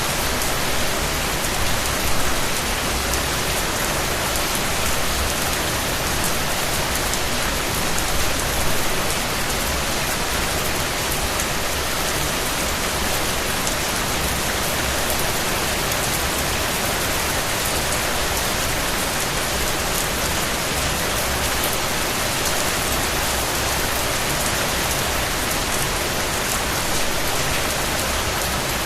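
Steady rain falling, a dense even hiss of many drops hitting a surface with fine scattered patter.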